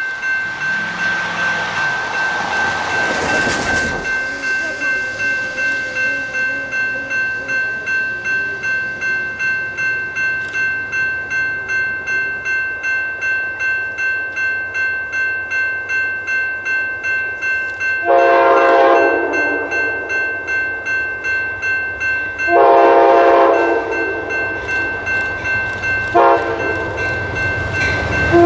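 Railroad grade-crossing bell ringing steadily, about two strikes a second, as a train approaches with a rising rumble. About 18 s in, the locomotive horn sounds the standard crossing signal: two long blasts, a short one, then a long one that carries on.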